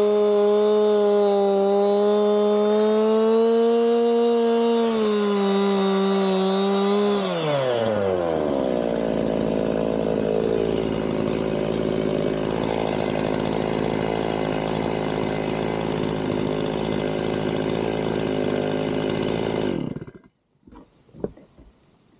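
Chainsaw engine running at high revs, then dropping to a steady idle about seven seconds in, left idling to cool down after a milling cut. It stops suddenly near the end, followed by a few faint knocks.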